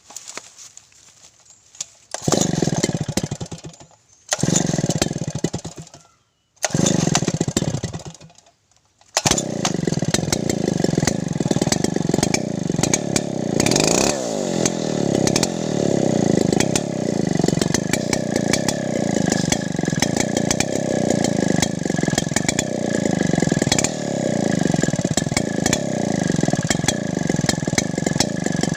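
Chainsaw engine starting: it runs in three short bursts of about two seconds that die away, then catches about nine seconds in and keeps running, its pitch rising and falling with the throttle. This is the very annoying sound that the owner links to the saw's CDI ignition.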